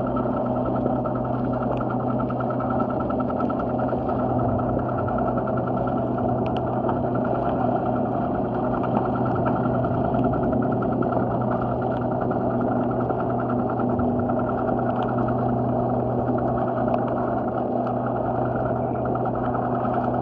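A steady mechanical drone like an idling engine, with a fast fine rattle and a few faint scattered clicks.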